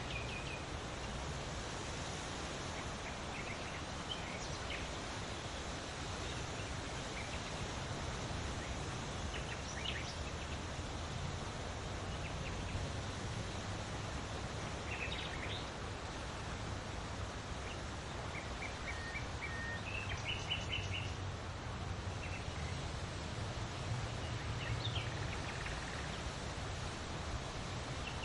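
Steady wind blowing with a low rumble, and short bird chirps calling now and then over it.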